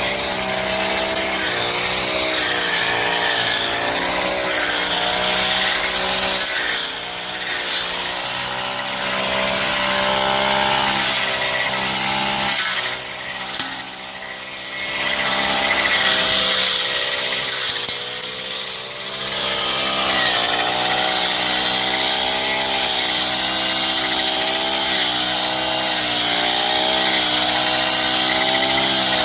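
Honda GX35 brush cutter's small four-stroke engine running at high revs, easing off three times as the throttle is released and then revving back up.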